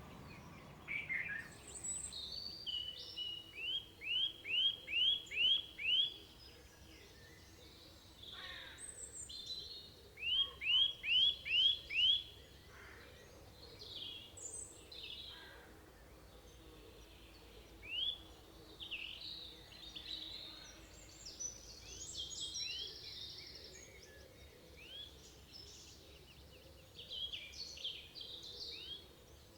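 Several forest birds singing over a faint steady background. The loudest singer twice gives a quick run of about six rising notes, once a few seconds in and again about ten seconds in, while other birds add scattered chirps and short phrases.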